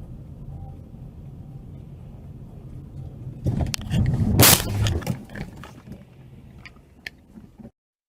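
Car crash: steady road and engine rumble, then a loud collision about four and a half seconds in, with a burst of crunching impacts and scattered clatter of debris trailing off afterwards.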